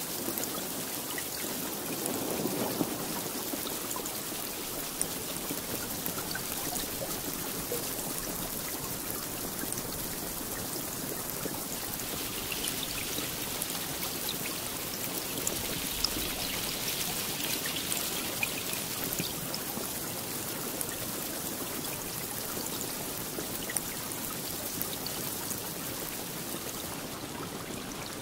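Steady rainfall, an even wash of noise flecked with sharp individual drop hits.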